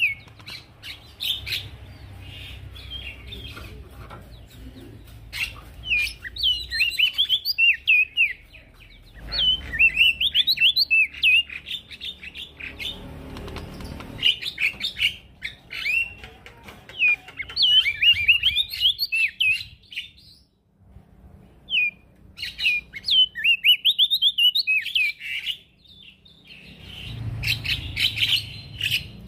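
A male prenjak daun sings hard in repeated bursts of quick, high, chirping notes, with short pauses between phrases.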